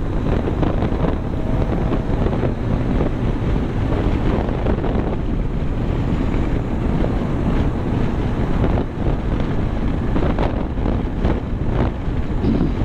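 Steady, heavy wind buffeting the microphone of a vehicle moving at speed, with road and engine noise mixed underneath.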